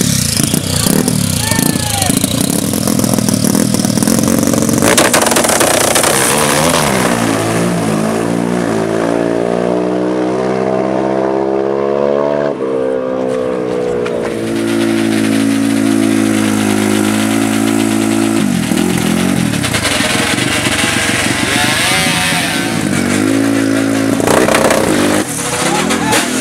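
A racing engine at high revs under hard acceleration, its pitch climbing. It drops sharply at a gear change about halfway through, climbs again, then backs off a few seconds later.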